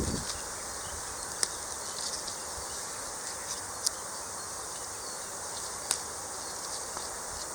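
A steady high chirring of insects, with three sharp single pops from the wood fire, spaced about two seconds apart.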